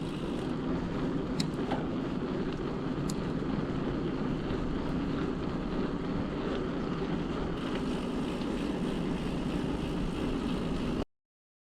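Steady rumble of wind and road noise from riding a bicycle under pedal power, its electric motor switched off, with a couple of faint clicks. The sound cuts out completely near the end: a recording dropout.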